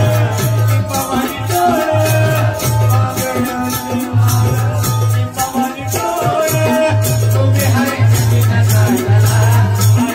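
Bhajan group's devotional music with no singing: a melodic instrumental line over a steady, pulsing drum beat and bright shaken, jingling percussion.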